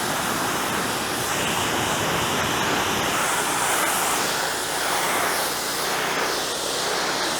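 Pressure washer spraying a steady high-pressure jet of water through its narrow, strong nozzle, a continuous loud hiss with small swells in level.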